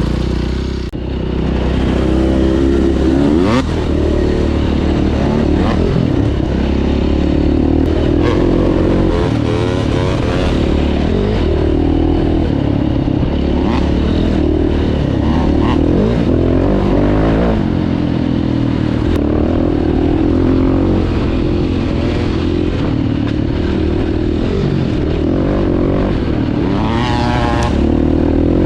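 2009 KTM 530 EXC dirt bike's single-cylinder four-stroke engine being ridden hard, the revs rising and falling over and over as the rider works the throttle through the gears.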